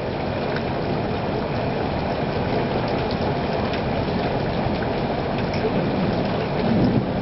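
Steady rain, an even rushing noise with scattered sharp drop ticks.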